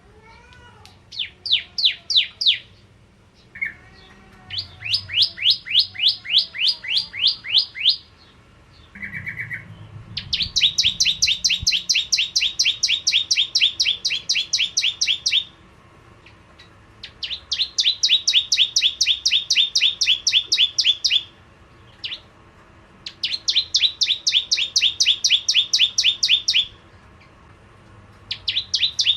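Prinia (prenjak jawa) singing in fast rattling bouts of sharp repeated notes, about eight a second. Each bout lasts a few seconds, with short pauses between, and the bouts grow louder from about ten seconds in.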